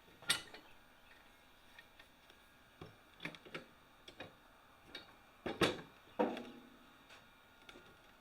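Irregular light knocks and clicks of steel parts or tools being handled and set down. The loudest come just after the start and about two-thirds of the way in, one with a short metallic ring.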